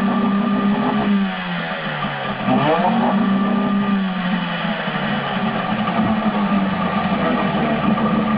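Johnson 6 hp outboard motor running on test: its engine speed sags about a second in, picks back up near the middle, then runs steady.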